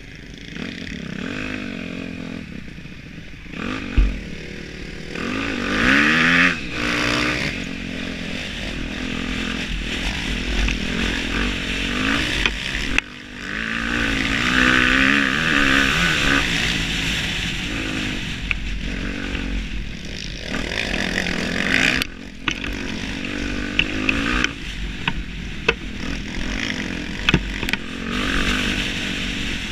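Motocross bike engine revving up and down through the gears, its pitch rising and falling over and over, with a sharp knock about four seconds in.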